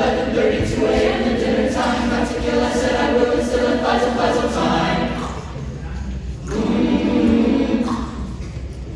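Concert choir singing in harmony. The singing softens about five seconds in and swells again a second or so later.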